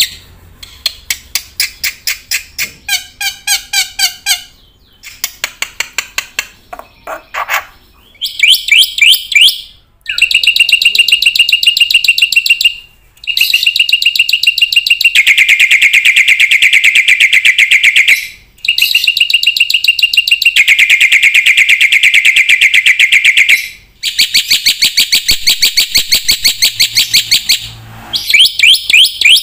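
A bird singing loudly in a long song of rapid repeated notes. It starts with short phrases that change in pitch and speed, then runs into long, very fast trills of several seconds each, broken by brief pauses.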